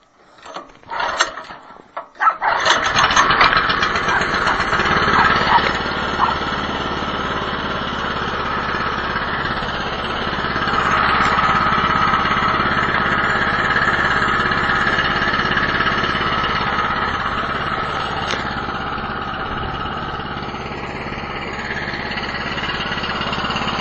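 Small gas engine of a cheap Chinese-made snowblower being cold-started by pull cord with the choke on and about an eighth throttle: a pull or two in the first couple of seconds, then it catches and runs steadily.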